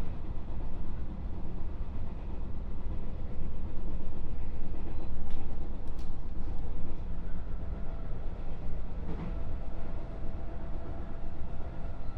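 Running noise inside a JR 221 series electric train's motor car: a steady low rumble of wheels on rail with faint tones from the running gear. A few sharp clicks come about halfway through.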